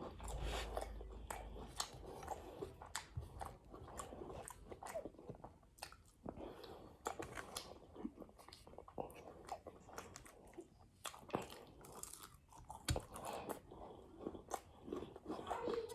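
Close-up eating sounds: a person chewing and biting food, with irregular crunches and wet mouth clicks, the crunch of well-done bacon among them.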